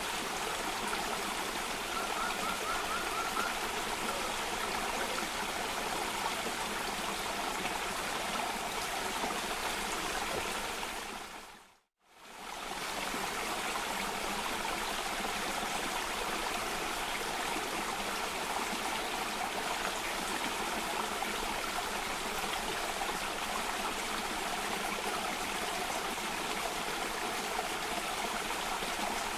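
Cascading stream water rushing and splashing in a steady wash of sound. About twelve seconds in it fades briefly to silence and back up, like a loop seam, and near the start there is a faint brief trill.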